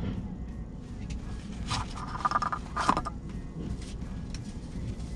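Semi truck's diesel engine idling steadily. About two seconds in come metallic knocks and a brief squeal as a shipping container is worked down onto the truck chassis's pins.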